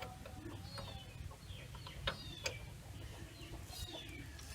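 Faint bird calls in the background: short falling chirps every second or so, with two light clicks about two seconds in.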